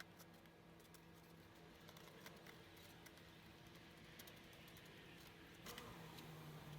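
Near silence: a faint steady hum with scattered small clicks and taps, and a slightly louder knock near the end.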